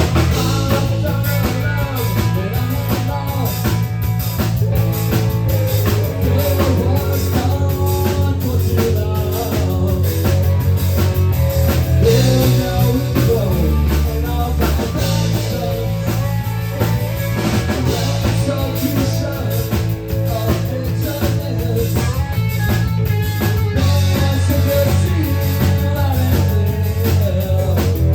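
Live rock band playing a song: drum kit and electric guitar with a singer.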